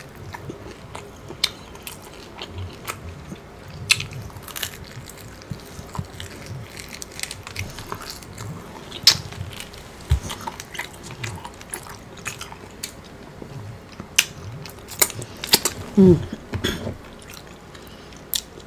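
Close-miked chewing, lip smacking and biting as barbecued meat is eaten off the bone, with irregular wet clicks and smacks.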